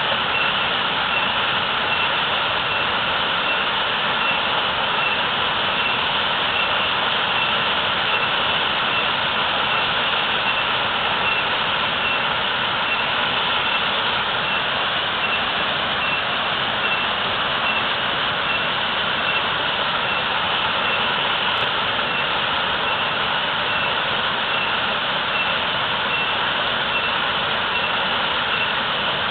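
Waterfall pouring heavily, a steady rushing of falling water with no change.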